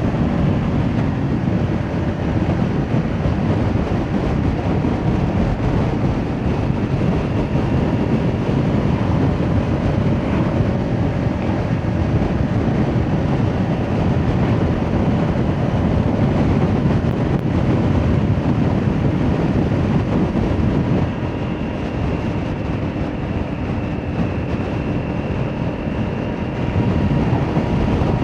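Kawasaki Ninja 400 parallel-twin with an aftermarket Akrapovic exhaust running steadily under way, mixed with wind rush on the microphone. The sound drops in level about three-quarters of the way through, then rises again near the end.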